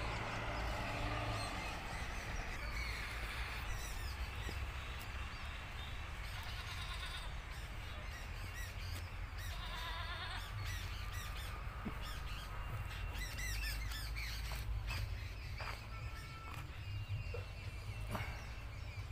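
Birds calling and chirping in the surrounding trees, short scattered calls throughout, over a steady low rumble.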